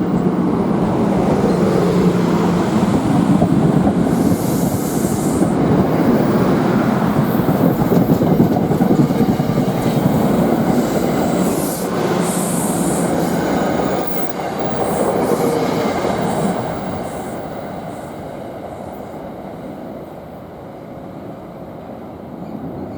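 NJ Transit commuter train rolling through the station with loud, steady wheel-on-rail noise, its wheels squealing briefly twice on the curve, about five and twelve seconds in. The noise fades away over the last several seconds as the train moves off.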